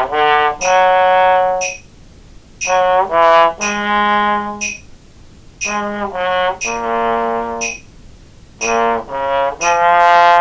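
Trombone playing short three-note fragments slowly, in four groups separated by brief pauses: small-chunk practice of a sequential jazz lick. A metronome clicks steadily underneath.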